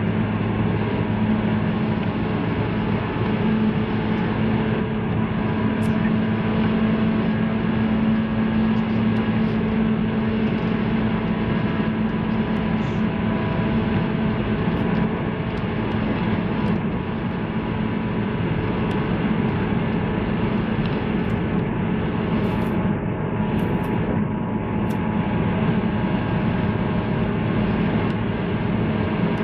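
Running noise of a 185 series electric multiple unit train: a steady rumble with a constant low hum and a few faint ticks near the end.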